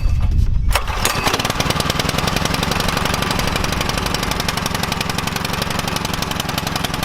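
Gas pressure washer's small engine catching about a second in, then running steadily with a fast, even firing beat.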